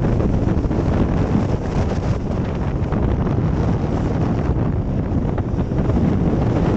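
Strong gale-force east wind buffeting a phone's microphone: a loud, steady rumbling roar with constant gusty fluctuation.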